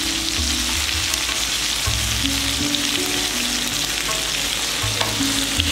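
Skewered chicken kebabs sizzling as they fry in butter in a shallow pan, with metal tongs lightly clicking against them as they are turned.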